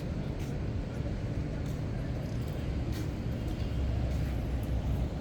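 Low rumble of city street traffic, swelling about three and a half seconds in as a vehicle passes close, with a few faint clicks.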